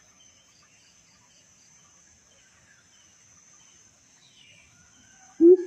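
Steady high-pitched insect drone with faint chirps, then near the end a coucal starts its deep, hollow hooting series of low notes, repeated about three times a second.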